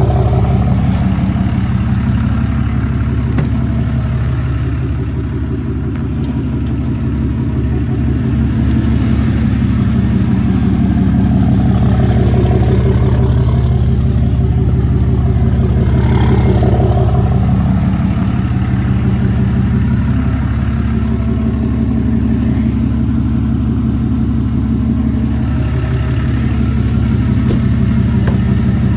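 A motor vehicle's engine running steadily for the whole stretch, its pitch drifting slowly up and down.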